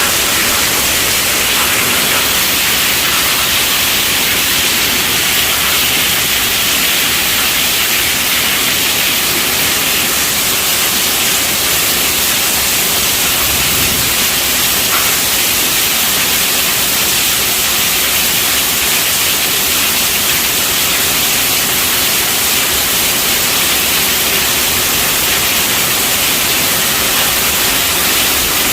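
Steady, even rainfall: a dense hiss of falling rain without letup.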